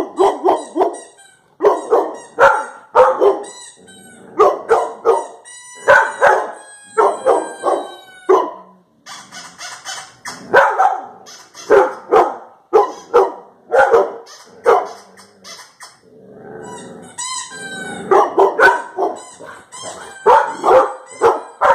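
A dog barking over and over in quick runs of short barks, pausing briefly near three-quarters of the way through. Between the barks come thin gliding pitched calls from the sound clips the dogs are reacting to.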